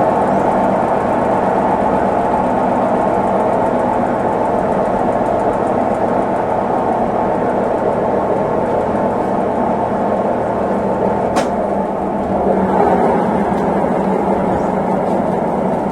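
Consul Facilite 11 kg (CWG11) washing machine running through its cycle, a steady churning noise of water and machinery. A single sharp click comes about eleven seconds in, after which the low rumble drops away.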